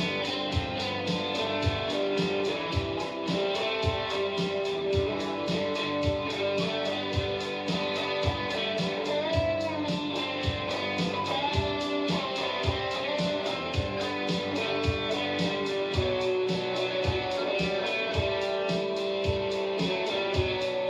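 Live indie-rock instrumental passage: electric guitar playing sustained notes and strums over a steady low beat, with no vocals.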